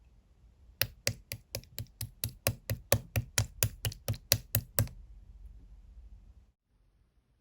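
Clear slime being pressed and worked by hand, giving a quick, even run of about twenty sharp clicking pops, roughly five a second, starting about a second in and stopping after about four seconds; a faint low rustle of handling follows.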